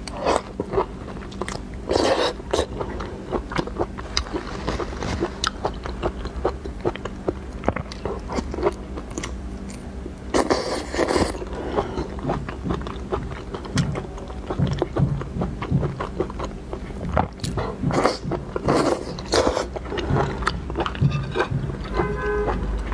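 Close-miked mukbang eating: biting and chewing peeled lobster meat, with many sharp wet clicks and crackles throughout.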